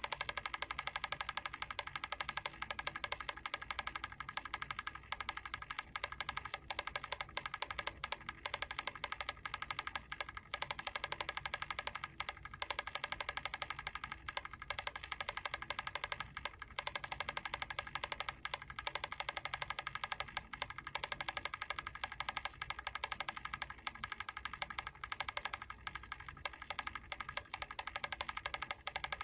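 Mechanical timer's clockwork ticking in a rapid, even run of light clicks that holds steady throughout.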